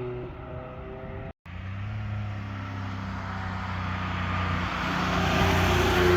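A car's engine and exhaust, with a brief cut to silence about a second and a half in; after the cut another car's engine holds a steady note and grows louder as it approaches.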